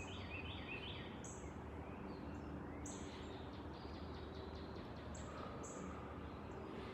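Birds chirping, short high notes repeating every second or so with a few quick falling trills, over a faint steady hum.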